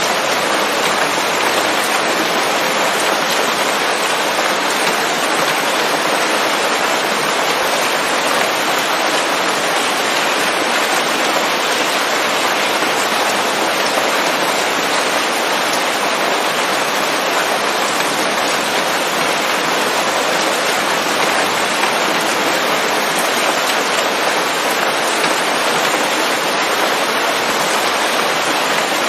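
Steady, dense rain falling on forest leaves, an even hiss of countless drops with no thunder.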